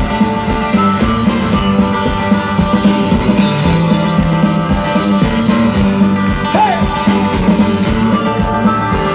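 Live band playing the instrumental intro of a rock-and-roll song, with guitar to the fore and a steady beat.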